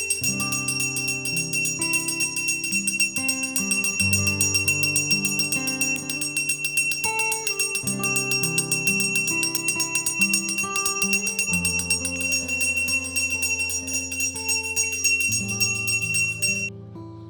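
Background music: a Christmas-style instrumental with bells jingling steadily over changing chords. The jingling stops shortly before the end.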